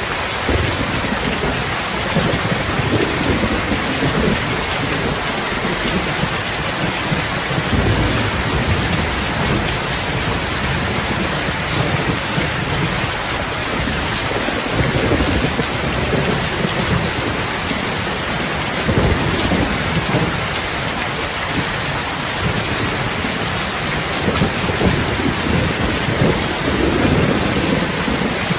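Heavy rain falling steadily, with low rumbles of thunder that swell and fade every few seconds.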